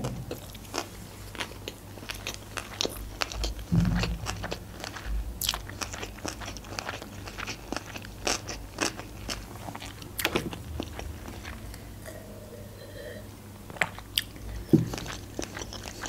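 Close-miked chewing of a mouthful of sushi roll: a steady run of short wet clicks and soft crunches, with a couple of deeper soft thumps about four seconds in and near the end.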